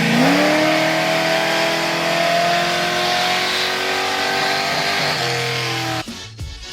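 Vehicle engine running, then revved up sharply just after the start and held at raised speed, creeping slightly higher, for about five seconds before dropping back; it cuts off abruptly near the end.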